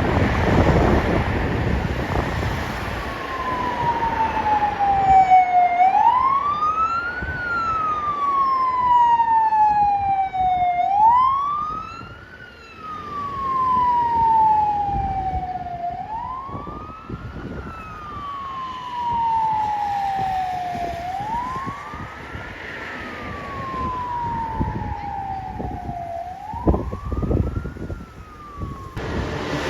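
Fire engine siren wailing, each cycle a quick rise and a slow fall that repeats about every five seconds, over engine and road rumble. The siren stops just before the end.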